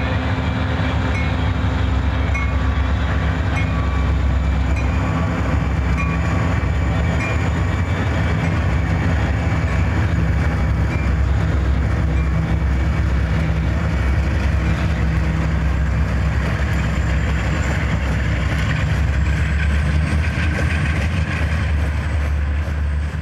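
Several BN diesel-electric locomotives pass under load with a steady low engine drone. Loaded coal hopper cars follow, rolling by with steady wheel and rail noise.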